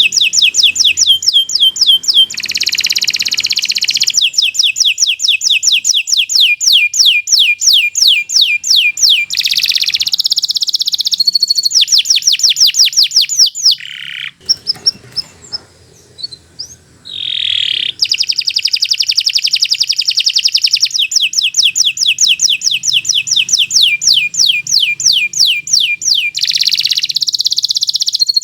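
Canary singing long rolling trills of fast, evenly repeated notes, with a short lull in the middle.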